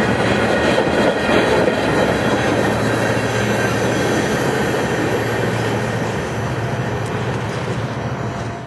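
Norfolk Southern freight train's cars rolling past: a steady rumble of steel wheels on rail, easing off slightly in the last few seconds.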